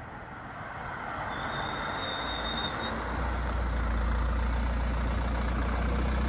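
Mercedes W211 E-Class brakes squealing: one steady, high-pitched squeal lasting about a second and a half, over the rising noise of the moving car and a low rumble that sets in about two seconds in. The squeal comes from the front brake pads, which the owner plans to replace to cure it.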